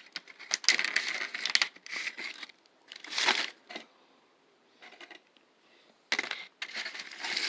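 Scraping and crackling noises of a piece being cut off a chocolate-coated souffle cake, coming in several bursts with a quiet stretch in the middle.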